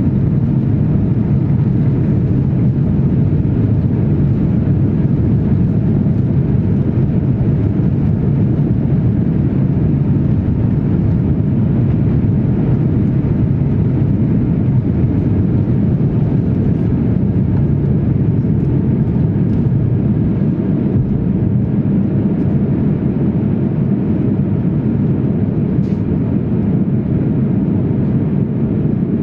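Jet airliner's engines running steadily, heard inside the passenger cabin as a loud, even, low rumble with no change in pitch.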